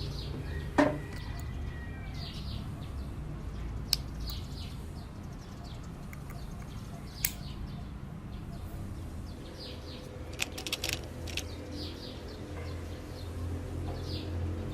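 Small birds chirping in short, repeated calls, with a few sharp clicks or taps scattered through and a steady low hum underneath.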